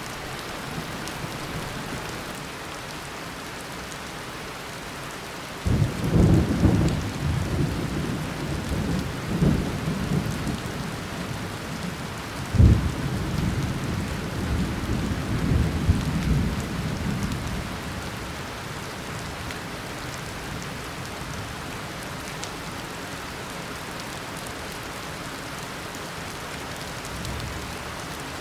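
Steady heavy tropical rain, broken about six seconds in by a sudden clap of thunder that rumbles on for some ten seconds, with a second sharp crack midway, then fades back into the rain.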